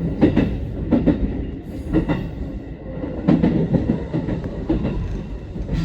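Electric commuter train running, heard from inside the car: a steady rumble with the wheels clacking over rail joints and points about once a second. The points are where the train sways.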